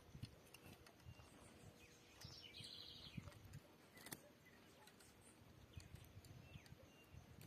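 Faint bird chirps: a few short, thin calls and ticks, with a brief buzzy trill about two and a half seconds in, over soft low bumps.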